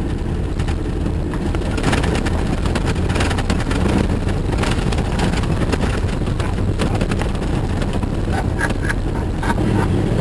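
Jeep driving slowly over a rough forest dirt track: a steady engine and road rumble, with frequent knocks and rattles as it jolts over bumps.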